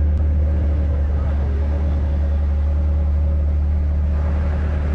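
An engine running steadily with an unchanging low drone.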